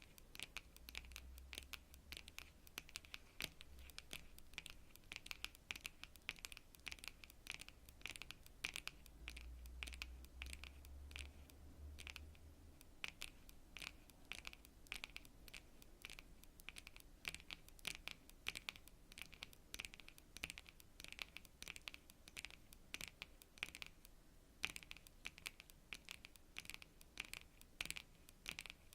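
Long natural fingernails tapping on cards: quick, irregular clicks, several a second, with brief pauses about halfway through and again near the end.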